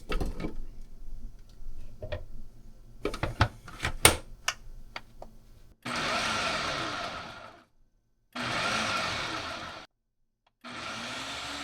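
Food processor chopping onion in three short pulses of a couple of seconds each, the motor spinning up and winding down each time with brief pauses between. Before that, several clicks and knocks of the bowl and lid being handled.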